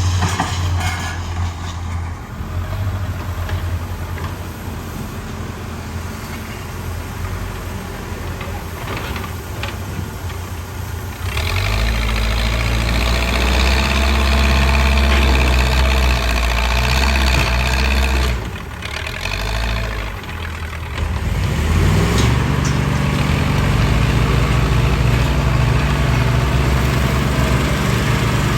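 Backhoe loader's diesel engine running. It speeds up and gets louder about 11 seconds in, drops back briefly, then rises in pitch again and holds at a higher speed, as it does when working under load.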